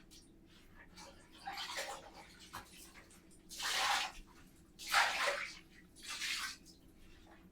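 Bathtub or shower being washed: four short swishing bursts about a second apart, the two in the middle the loudest.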